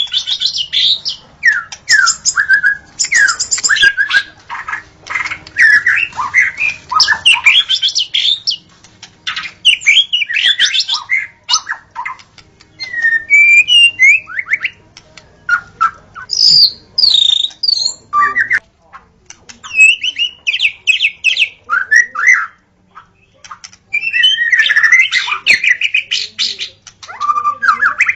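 White-rumped shama (murai batu) singing: fast runs of varied whistled and chattering notes in phrases, with short breaks between them.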